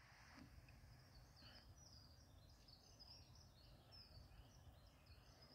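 Faint songbird song: a quick run of high chirping phrases, busiest from about two seconds in, over a steady low rumble.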